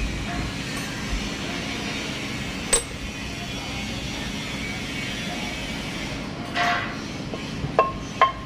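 Metal tools and engine parts clinking and knocking during engine overhaul work: a sharp clink about three seconds in, a short clatter near seven seconds, and two ringing metallic clinks near the end, over a steady background hum.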